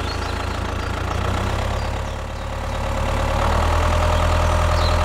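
Engine idling steadily, growing louder about three and a half seconds in.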